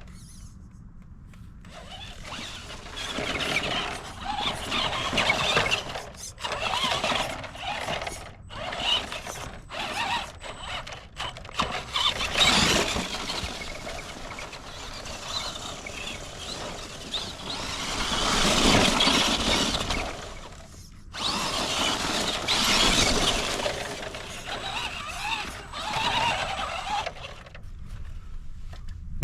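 Electric RC monster truck with a brushed Mabuchi 550 motor being driven in bursts of throttle: a whine that swells and fades in surges, with brief drops when the throttle is released.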